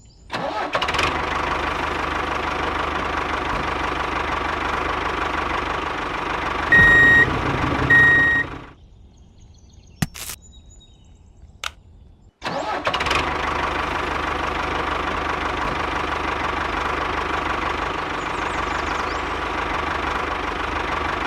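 Miniature tractor running with a steady engine-like drone. It gives two short beeps about seven and eight seconds in, stops for about four seconds with a couple of clicks, then starts up again and runs on.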